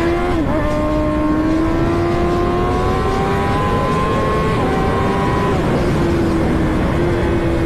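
Kawasaki ZX-10R's inline-four engine running at high revs while riding. A sustained high engine note holds fairly steady, with small dips in pitch about half a second in and again past the middle, over a constant rush of noise.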